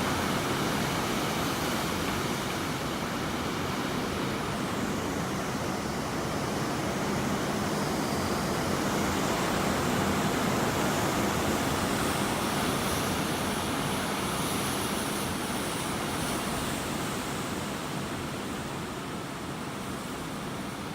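Hurricane storm noise: a loud, steady rush of wind and storm-driven water, with the wind's pitch rising and falling in gusts.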